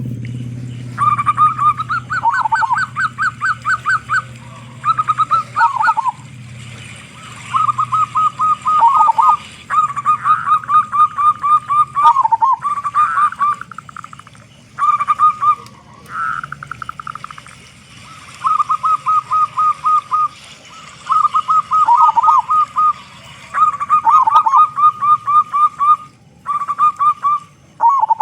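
Zebra dove (local perkutut) cooing: bout after bout of rapid staccato coos, each phrase ending in a short lower dip, repeated with brief pauses.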